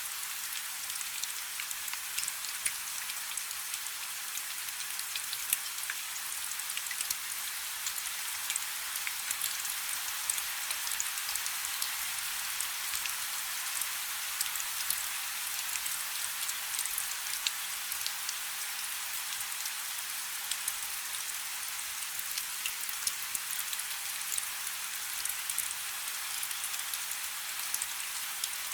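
Steady rain falling on a river, a dense even hiss with many small drop ticks.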